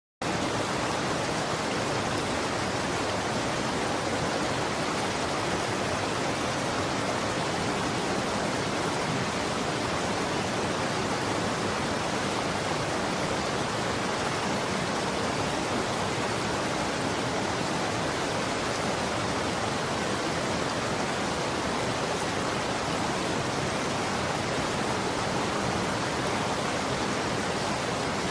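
Running water rushing steadily, an even hiss with no separate splashes or drips standing out.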